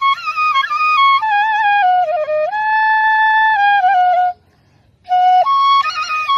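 Bansuri (bamboo flute) playing a melody of stepping notes, with one note held for well over a second. A brief silence about four and a half seconds in, then the tune resumes.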